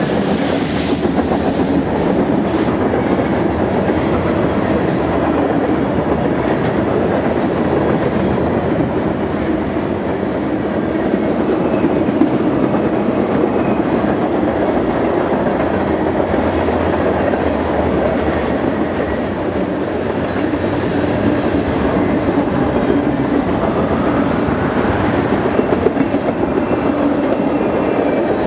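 Freight train cars rolling past on the rails, with a steady rumble and the clickety-clack of wheels over rail joints.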